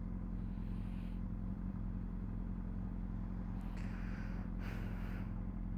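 Honda CBR600RR's inline-four engine idling steadily, with no revving, and a brief rushing noise about four seconds in.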